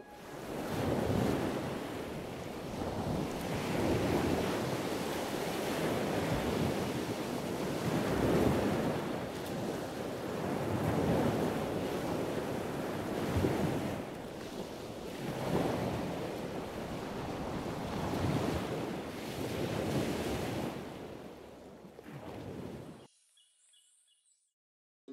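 Sea surf breaking on a beach, swelling and fading every two to three seconds, then cutting off suddenly near the end.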